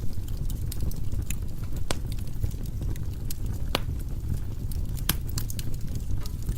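Firewood burning in a fireplace: a steady low rush from the fire with scattered sharp crackles and pops, three of them louder, about two, three and a half, and five seconds in.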